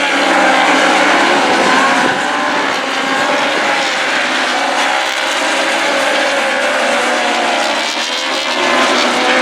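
Several racing motorcycle engines running hard at once, their pitches gliding up and down as the riders shift gear and pass.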